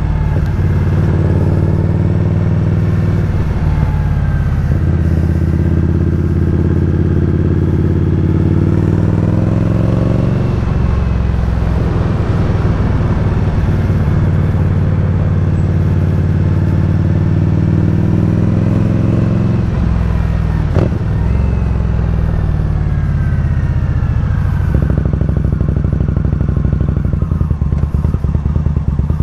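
Indian Scout Bobber's V-twin engine on the move, its pitch climbing twice under acceleration and dropping back as the throttle comes off or a gear changes, then settling to a steady run. A single sharp click sounds about two-thirds of the way through.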